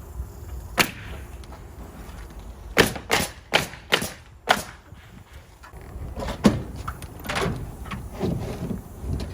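Ring shank nails being driven into the shed's roof sheeting with sharp strikes: one about a second in, a quick run of five about three to four and a half seconds in, and another near six and a half seconds, with rougher handling noise after.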